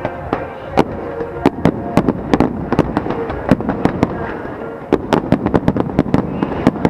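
Aerial fireworks bursting in quick succession: many sharp bangs and crackles, coming thickest about five to six seconds in.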